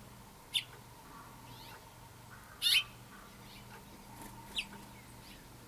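Backyard birds calling: three short, sharp chirps about two seconds apart, the middle one the loudest, with fainter chirps between.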